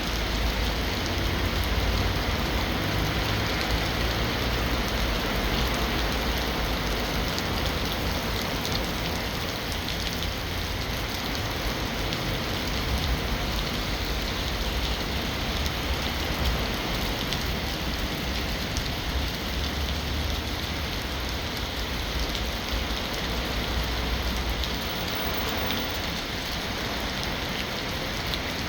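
Heavy rain falling steadily, with many fine drop ticks and a low rumble underneath.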